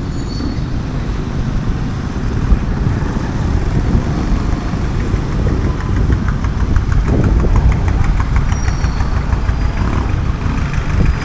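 Street traffic, with the engines of nearby vehicles running and idling steadily.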